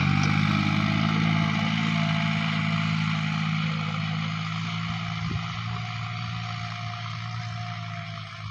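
John Deere 5055E tractor's diesel engine running at a steady pace, slowly growing a little quieter.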